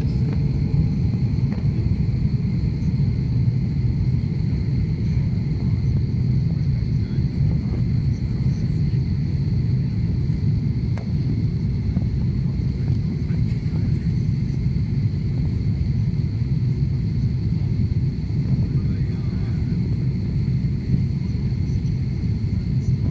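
Steady low rumble of an airliner, with a faint steady high whine.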